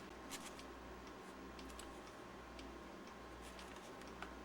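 A few faint, scattered clicks and taps from small parts of a battery pack being handled, over a steady faint hum.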